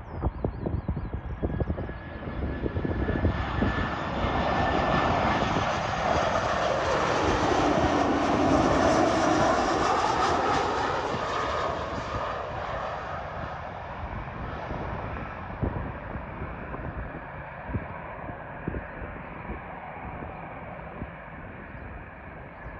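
Airliner's engines passing by, the noise building to a peak midway and then slowly fading as it moves away. Wind buffets the microphone in the first few seconds.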